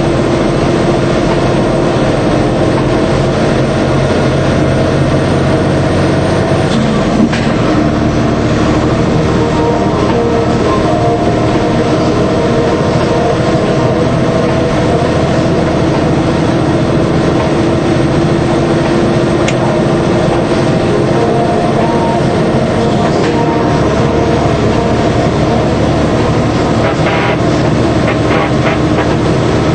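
DAF 75 truck's diesel engine running steadily under way with road noise. The engine note shifts about seven seconds in and again near the end.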